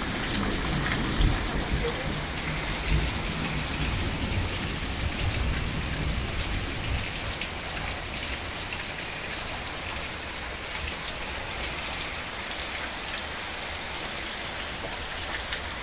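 Heavy rain pouring down steadily, a dense hiss of rain on the ground and foliage. A low rumble runs under it for the first several seconds.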